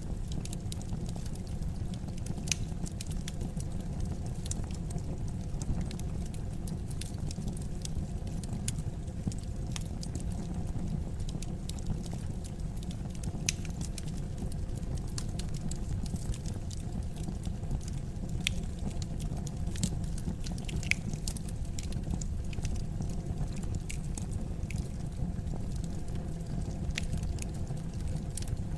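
Wood fire crackling steadily: a low, even rumble of burning with irregular sharp pops and snaps scattered throughout.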